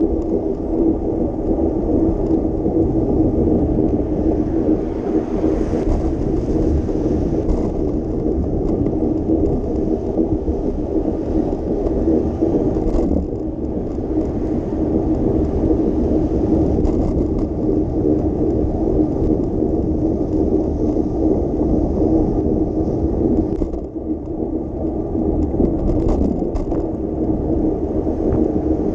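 Steady road noise heard from a moving bicycle on wet city streets: a continuous low rumble of tyres on damp pavement with a faint hum and hiss over it.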